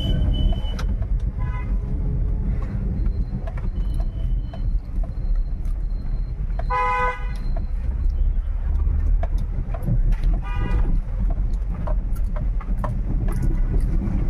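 Steady low road and engine rumble of a car driving, with vehicle horns honking three times: a short one about a second and a half in, a louder half-second honk about seven seconds in, and another about ten seconds in.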